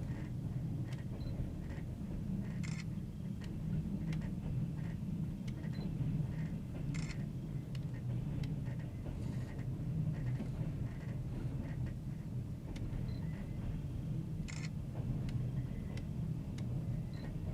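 Passenger train running on jointed rail: a steady low rumble with occasional sharp clicks as the wheels cross rail joints.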